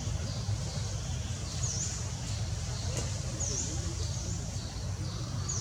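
A bird calling in the background, a short high chirp repeated about every two seconds, over a steady low rumble.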